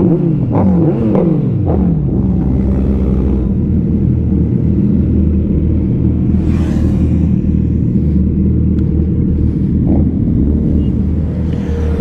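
Superbike engines: a few quick revs that fall away in pitch over the first two seconds, then a steady low engine drone, with a brief rush of noise about six and a half seconds in.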